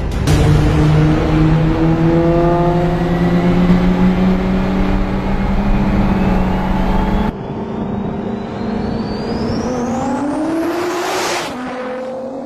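Car engines accelerating hard at full throttle, the engine note climbing slowly. About seven seconds in the sound changes abruptly to another run, where a high whine rises steeply for several seconds before it breaks off.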